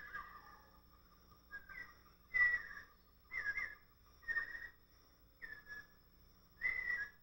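A bird giving short whistled calls, roughly one a second, each a quick note that often falls in pitch.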